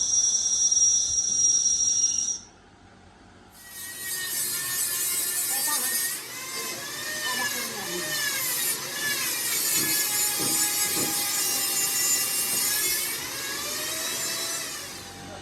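A power tool whining steadily, cut off abruptly after about two seconds. After a short pause a harsh, rasping tool noise starts, its high pitch wavering up and down, and runs until near the end.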